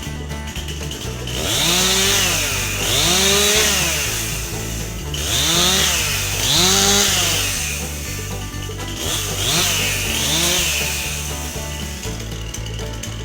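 Stihl MS261 C chainsaw revving up and falling back in three pairs of revs, as in bucking beech logs into firewood lengths. Background music plays throughout.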